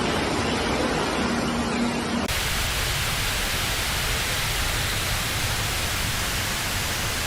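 Steady rushing of water, an even hiss-like noise whose character changes abruptly about two seconds in.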